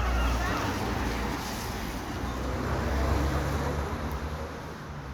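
Low, steady rumble of a motor vehicle, easing off near the end.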